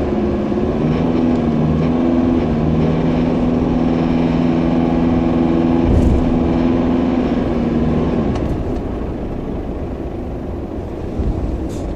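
2009 Ford Ranger PK XLT running with a steady low drone, the vibration noise its owner is chasing. There is a single thump about six seconds in, and the drone dies away about eight seconds in.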